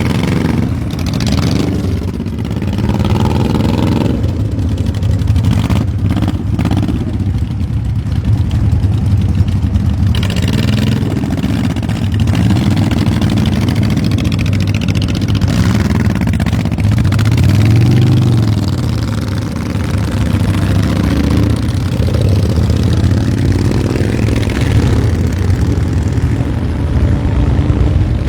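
A group of motorcycles with loud exhaust pipes pulling out one after another, their engines rising and falling in pitch as each one revs and moves off.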